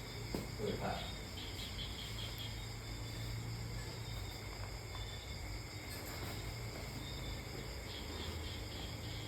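Faint, pulsing high-pitched insect chirping over a steady low hum.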